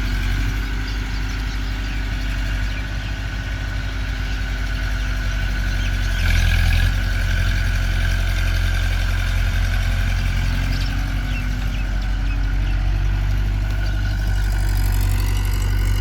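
Diesel engine of the loading machinery running steadily at idle, with a brief louder surge about six seconds in.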